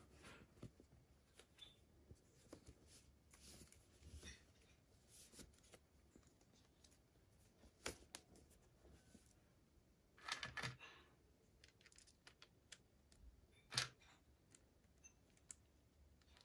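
Faint scattered clicks and rustles of hands handling plastic and cardboard toy packaging, with a brief rustle about two-thirds of the way in and a sharper click near the end.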